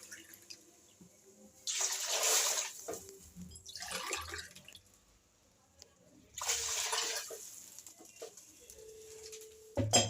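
Water poured from a glass into a cooking pot three times, each pour splashing for about a second, to make up the three glasses of water for biryani. A sharp knock near the end.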